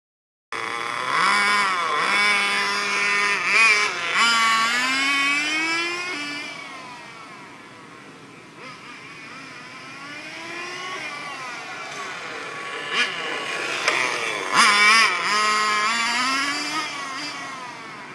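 Engine-powered RC car's small two-stroke engine revving up and down as the car is driven, the pitch rising and falling with each burst of throttle. It is loud for the first several seconds, drops away in the middle, then comes up loud again for a few seconds.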